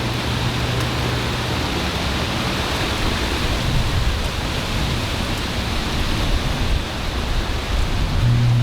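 Heavy thunderstorm rain pouring down steadily, an even hiss with no breaks.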